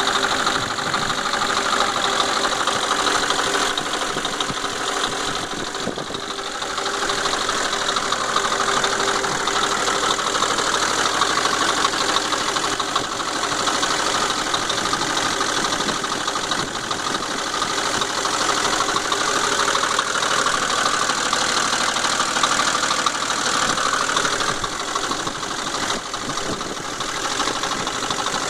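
An engine running steadily with a fast, even rattle or ticking in it, the strange noise its owner is recording.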